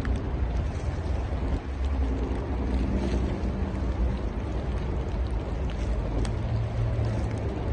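Steady low rumble with a faint, shifting engine hum, like a vehicle on the move.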